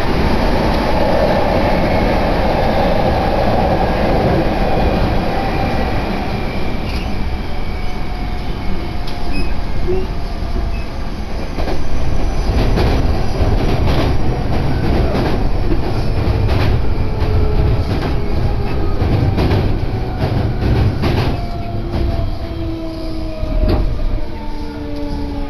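Hankyu Kobe Line electric train heard from inside the car while running: a steady rumble, with the wheels clicking over rail joints from about a quarter of the way in. Near the end the motor whine slides down in pitch and the noise eases as the train slows.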